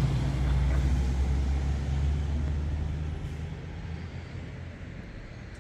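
A motor vehicle's engine running with a low rumble that fades away over about the first four seconds.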